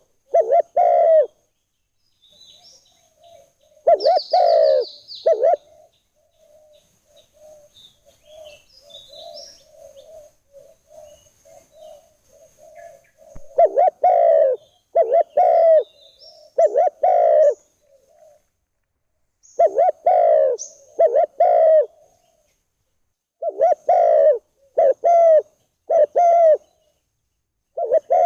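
Spotted dove (tekukur) cooing in repeated phrases of about three notes each, with pauses of a few seconds between phrases. Fainter cooing and a few high chirps from small birds fill the gaps.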